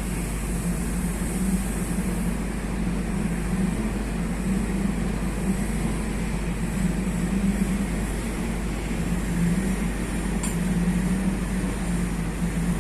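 Large off-road dump truck's diesel engine running with a steady low drone, and one brief click about ten seconds in.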